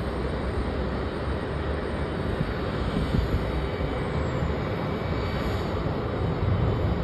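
Jet airliner engines rumbling steadily, with a faint high whine that falls in pitch about four seconds in.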